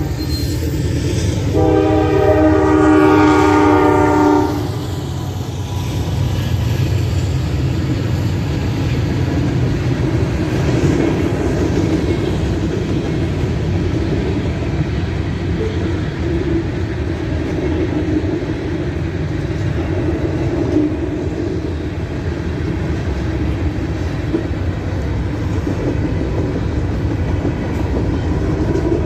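Freight locomotive's air horn sounding a long blast of about three seconds near the start, after a brief note at the very start. Then the train rolls past with a steady rumble and the clatter of wheels on the rails.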